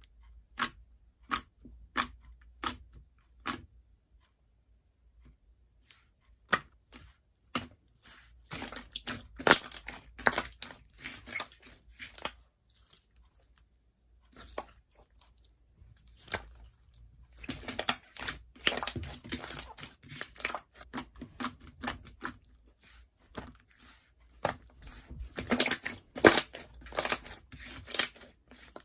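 Close-up crunching and crackling handling sounds: five sharp clicks about two-thirds of a second apart open it, then dense clusters of crunchy, crinkly noise, loudest near the end.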